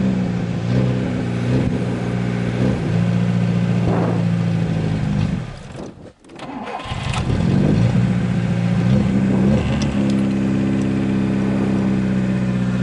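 VAZ 2107's four-cylinder engine idling steadily, then dying out about halfway through and starting again a second later, settling back into an idle. The engine keeps stalling, with the battery run down.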